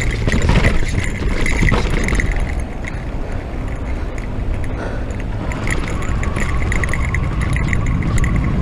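Riding noise from an electric mountain bike on a dirt trail: tyre and trail rumble with wind on the camera microphone, and a faint steady whine joining about halfway through.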